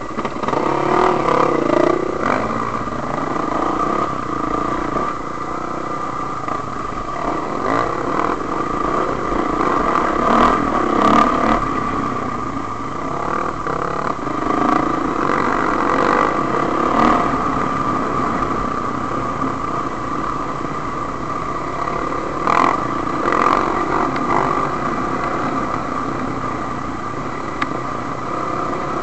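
Enduro dirt bike engine running under load and revving up and down as the bike is ridden over a rough dirt trail, with occasional sharp knocks and clatter from bumps.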